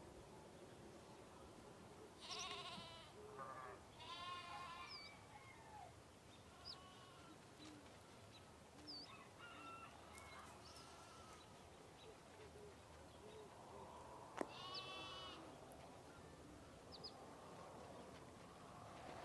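Farm goats or sheep bleating faintly: several wavering bleats, the clearest about two seconds in, at four seconds, and near the fourteen-second mark, with quieter calls between. Short high bird chirps sound here and there, and there is one sharp tick just before the last bleat.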